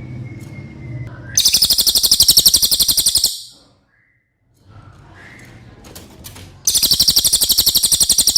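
A cililin bird singing two very fast, high-pitched trills of rapidly repeated notes, each about two seconds long, one a little over a second in and another near the end. A low rumble runs underneath before the first trill.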